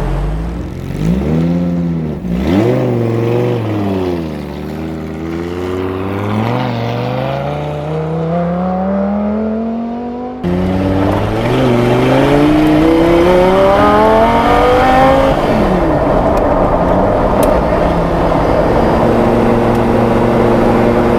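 Audi R8 V10 engine in a recreated Porsche 917 accelerating hard, its pitch rising and falling. It makes long climbs in revs, with a sudden jump in loudness about ten seconds in. It drops off near the end and settles into a steady drone for the last few seconds.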